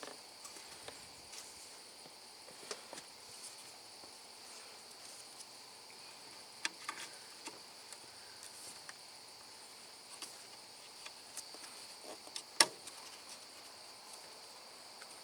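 Faint, steady high-pitched insect chirring, with a few sharp clicks and knocks scattered through it, the loudest about twelve seconds in.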